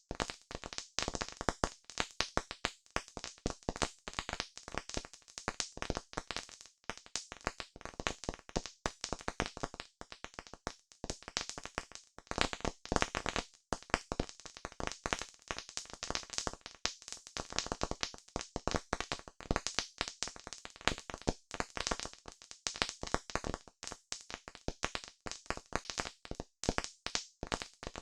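Wood fire crackling, with dense irregular pops and snaps.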